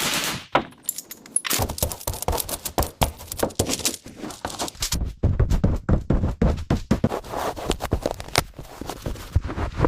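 Irregular clatter of sharp clicks, knocks and scrapes, with heavier thunks around two seconds in and again in the second half, from hands and tools working on parts.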